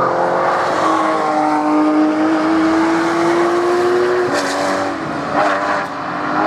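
Sports car engines at high revs on a race track: one engine note climbs steadily for about three seconds as the car accelerates, then the sound changes just after four seconds in to other engines, with two short bursts of noise about a second apart.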